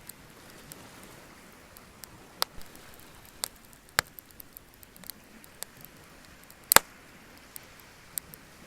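Wood bonfire crackling, with irregular sharp pops over a faint steady hiss; the loudest pop comes about two-thirds of the way in.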